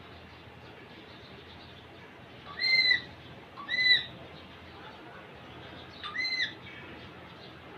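Indian ringneck parakeet giving three short, clear calls, each rising and then falling in pitch, the first two about a second apart and the third a couple of seconds later.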